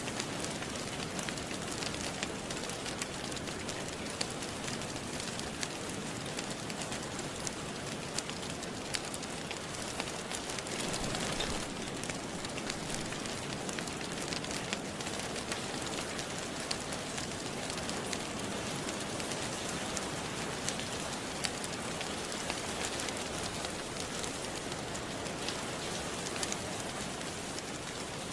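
Steady rain, with scattered sharp pops and crackles of a wood fire throughout and a brief swell in the rain about eleven seconds in.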